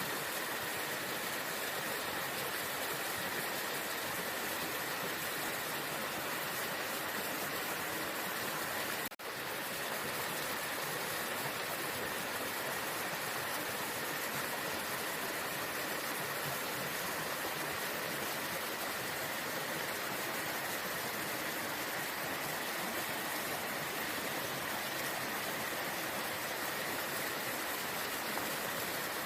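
Waterfall: a steady, even rush of falling water. The sound drops out for an instant about nine seconds in.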